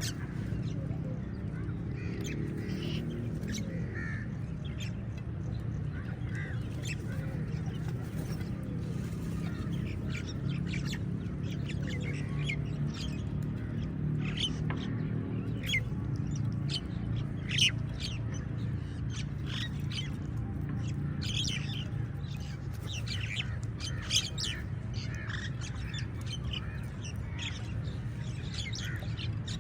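A flock of crows calling, many short harsh caws overlapping throughout and growing denser in the second half, over a steady low rumble.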